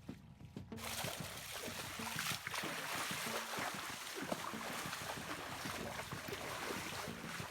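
Water splashing and rushing in a shallow stream, with many small splashes as someone wades through it, over faint background music.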